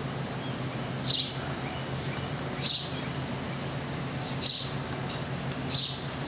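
A bird chirping four times, a short call about every one and a half seconds, over a steady low hum.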